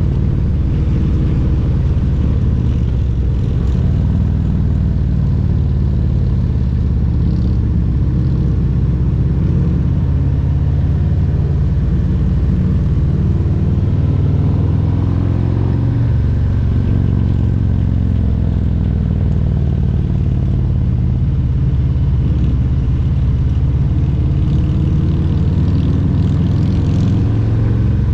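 Harley-Davidson Road Glide Special's Milwaukee-Eight 114 V-twin running steadily while riding, its note rising and falling a little with the throttle.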